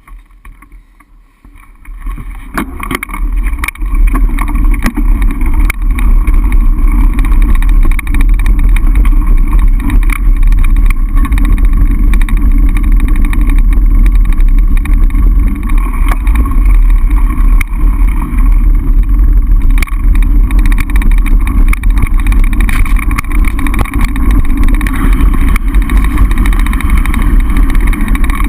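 Heavy wind buffeting on the microphone of a mountain bike riding fast downhill, with rattling knocks from the bike over rough ground. It builds over the first few seconds, then stays loud and steady.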